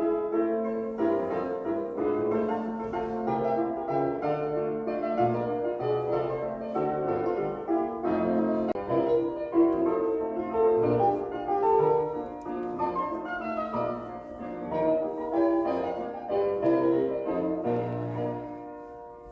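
Piano music, a run of played notes that fades out near the end.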